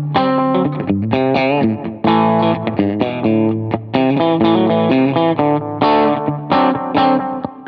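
Electric guitar, a Fender Stratocaster, played through a Line 6 HX Stomp amp model and a Boo analog delay. It plays a quick phrase of single notes and chords, with a wavering, bent note a little over a second in.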